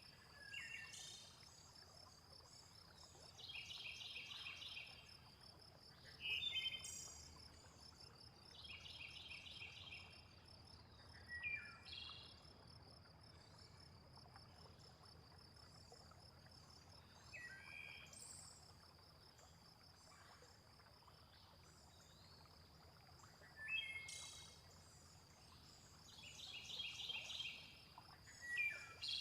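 Faint nature soundscape: a steady high insect trill like crickets, with bird calls every few seconds, some sharp falling chirps and some short rapid trills.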